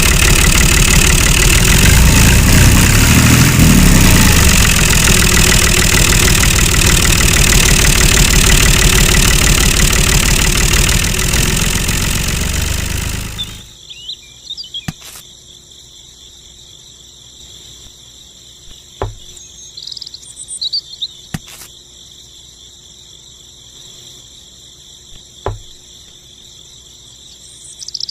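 A loud engine runs for about the first half, then cuts off suddenly. Crickets then chirp steadily, with a few sharp clicks.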